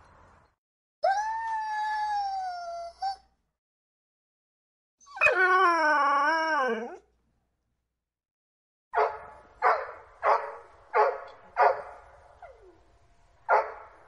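Dog vocalising. It gives two long drawn-out howls, the second lower and wavering in pitch, then a series of short sharp barks about two-thirds of a second apart in the last five seconds.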